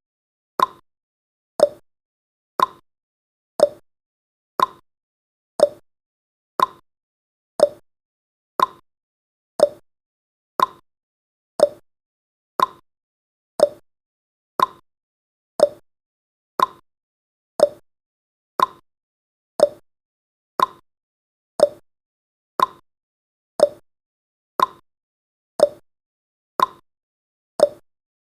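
Clock ticking sound effect, one sharp stroke a second, alternating between a higher tick and a lower tock.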